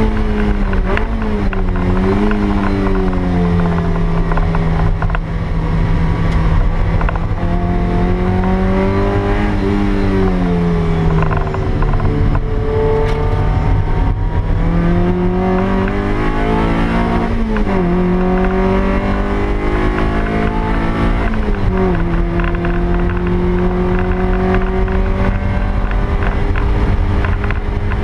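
Toyota MR2 Spyder's stock 1ZZ 1.8-litre four-cylinder engine heard from inside the cabin while lapping a race track. Its note climbs and falls as the car accelerates and slows, with abrupt pitch changes about two-thirds of the way through and again near the end, over a steady rumble of road and wind noise.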